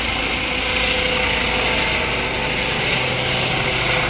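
Medical helicopter flying overhead just after liftoff: a steady sound of engine whine and rotor noise, with a low hum coming in about three seconds in.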